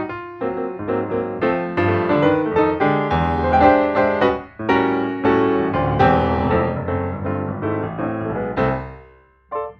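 Background piano music, a steady run of notes that fades out near the end, with one brief note after the fade.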